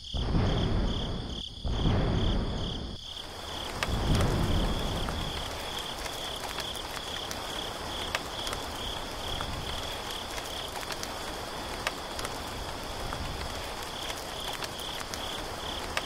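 Steady rain hiss with crickets chirping in an even, pulsing trill. Heavier low rumbles come and go in the first five seconds.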